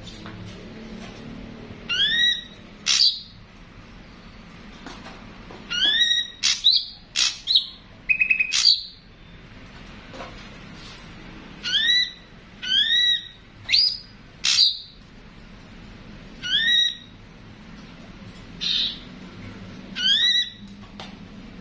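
Ashy drongo calls: short, loud, rising whistled notes, mostly in pairs and repeated every second or two, with a few harsh squawks and a rapid stuttering run of notes about eight seconds in. A faint steady low hum lies underneath.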